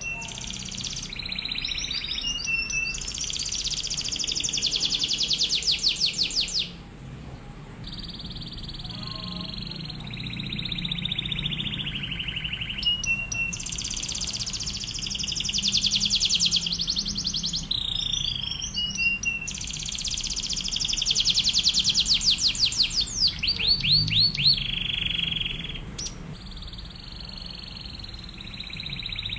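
Domestic canary singing a long, continuous song. Its drill-like rapid trills each run for several seconds, three of them long, and alternate with smooth falling whistled notes.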